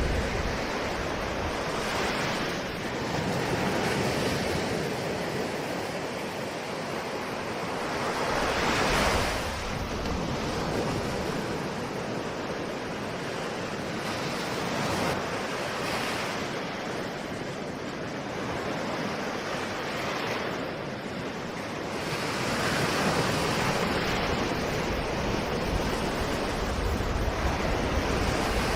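Ocean waves breaking and washing on a shore, swelling every few seconds with a louder surge about nine seconds in, with some wind noise on the microphone.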